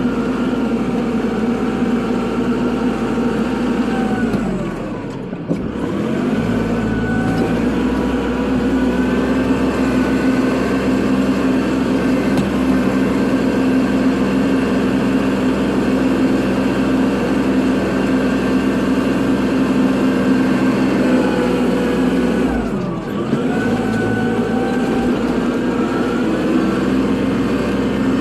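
Kubota tractor's diesel engine running steadily during snow plowing. Twice, about five seconds in and again near twenty-three seconds, its pitch drops for a second or two and then rises back up.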